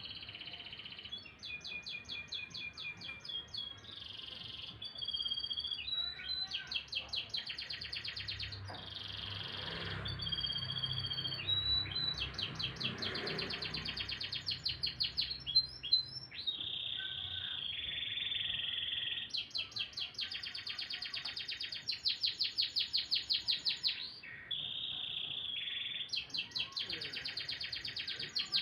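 Domestic canary singing a long, continuous song: rapid trills of quickly repeated notes alternating with held whistled tones.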